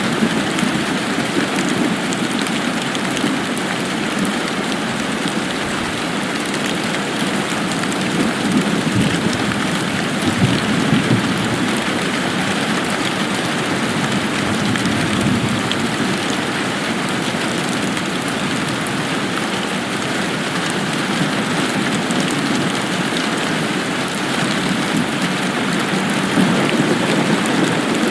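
Steady heavy rain falling, a dense even hiss with fine patter of drops, swelling slightly in its low rumble now and then.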